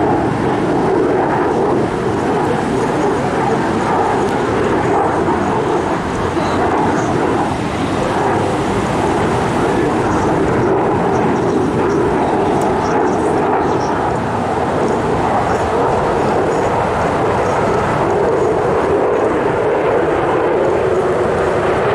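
Loud, steady jet noise from an F-22 Raptor's two Pratt & Whitney F119 turbofan engines during its flying display.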